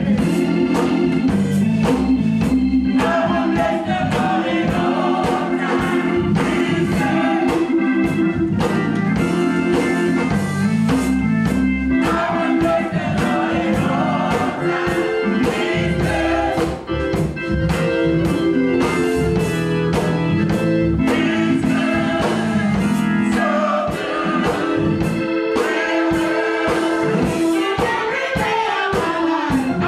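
Church gospel choir singing with instrumental backing and a steady beat.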